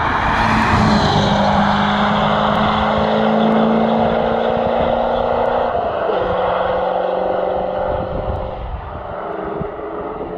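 C4 Corvette's V8 engine running hard as the car drives past on the road. The engine note steps down about six seconds in, then fades toward the end.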